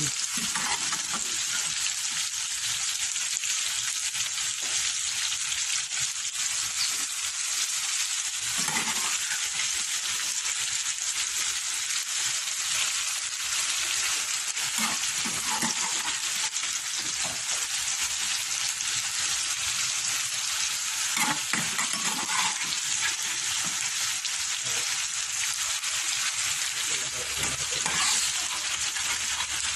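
Boiled chicken gizzards sizzling steadily as they sauté in hot oil in a pan with onion, tomato and garlic for adobo, with a few short stirring strokes every several seconds.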